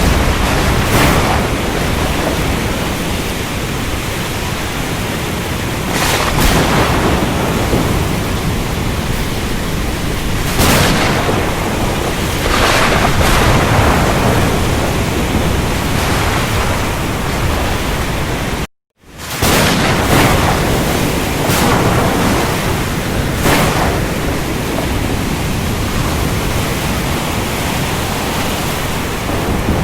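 Ocean storm: a loud, steady rush of surf and rain, with louder crashes every few seconds. The sound cuts out for a split second about two-thirds of the way through, then resumes.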